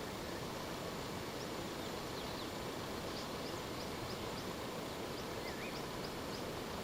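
Steady outdoor background noise with faint bird calls: series of short high chirps and a brief rising whistle about five and a half seconds in.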